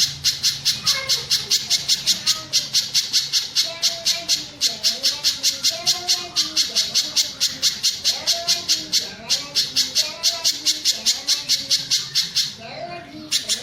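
Pijantung gunung (spiderhunter) calling: a rapid, evenly spaced string of sharp high notes, about five a second, with softer lower warbled notes beneath and a brief break near the end.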